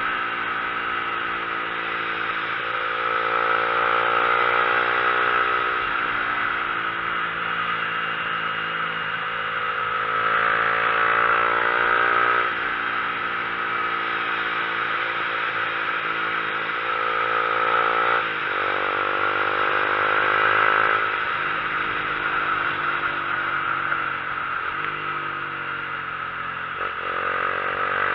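Motorcycle engine pulling uphill, its revs climbing and then dropping sharply at each of several gear shifts, with steady road and wind noise underneath.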